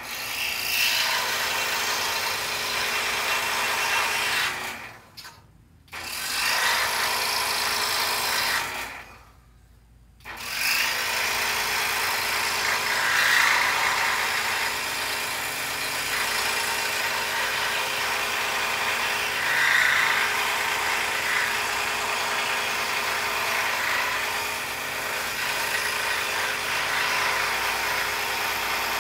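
Scroll saw running and cutting through a poplar board, a steady mechanical buzz. It stops twice and starts up again, about five seconds in and again about nine seconds in.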